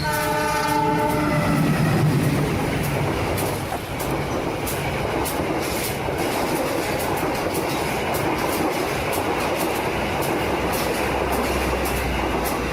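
A multi-tone train horn blowing for about a second and a half, then the steady rumble of a running train with a regular clack of wheels over rail joints.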